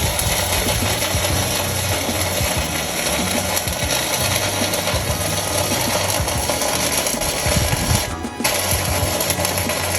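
Electric welding arc crackling and sizzling steadily over a low hum, breaking off briefly about eight seconds in before carrying on.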